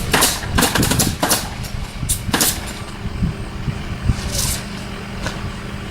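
A motor running steadily, with a quick run of sharp clicks and hisses in the first two and a half seconds and another short hiss a couple of seconds later.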